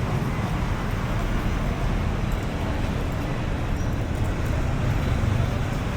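Steady city street noise: the low rumble of passing traffic, with no single event standing out.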